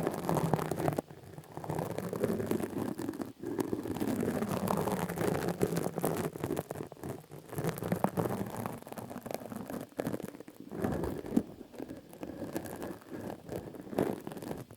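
Close-miked ASMR trigger sounds: dense crackling and scratching with many small clicks over a rustling bed, cutting off abruptly at the end.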